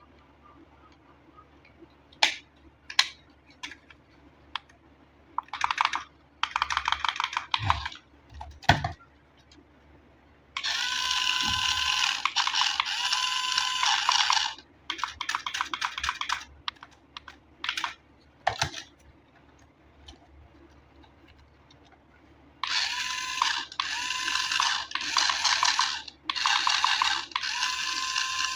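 Small electric motor and plastic gearbox of a toy RC car whirring in repeated bursts of one to four seconds, with a fine ratcheting buzz. A few sharp clicks of handling come before the first bursts.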